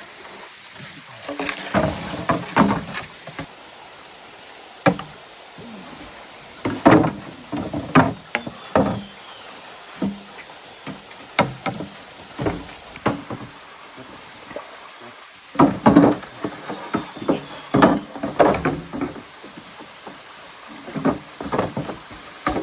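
Irregular bouts of rustling, scraping and knocking, as of shelter materials such as wood and sheeting being handled, with quieter stretches between them.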